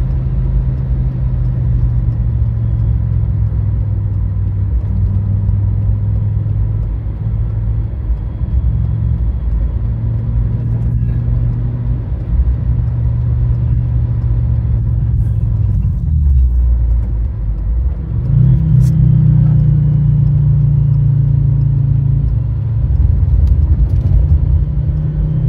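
2004 Fiat Stilo Abarth's 2.4-litre 20-valve five-cylinder engine running hard through a lap, with a steady low drone. About two-thirds of the way through the note drops briefly, then comes back louder.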